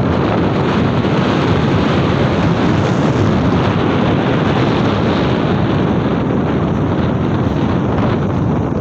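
Strong wind blowing steadily, rushing and buffeting the microphone.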